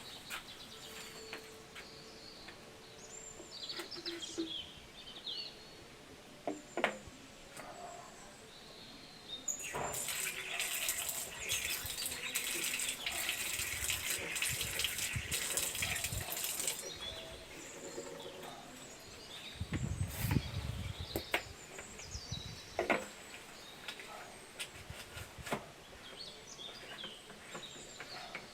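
Birds chirping, with about seven seconds of loud, steady water hissing in the middle. The hissing comes from mixing or spraying liquid foliar fertilizer. Later come a few dull knocks and light clicks from handling.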